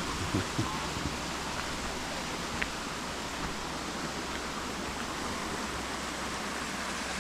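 Steady rush of flowing river water, an even hiss with a few faint ticks over it.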